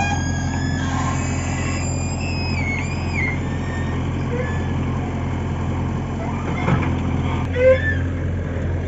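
Heavy diesel engine running steadily, a constant low hum with no revving. A short louder sound comes near the end.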